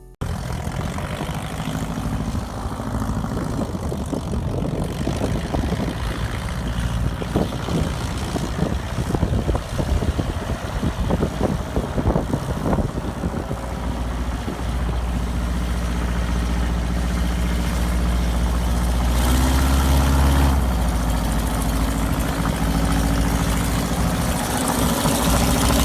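Aircraft engine running with a steady low drone, with rough crackling noise through the first half.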